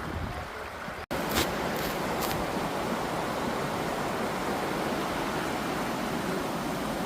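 Steady rush of a mountain stream's flowing water. About a second in, the sound cuts out for a moment, then resumes louder and steady.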